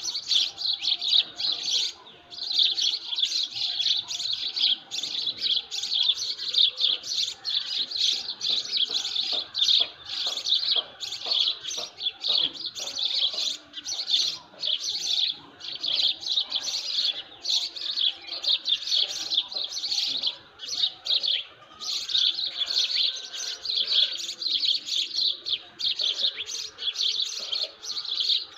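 A chorus of many small birds chirping, a dense, unbroken stream of rapid high chirps with no pauses.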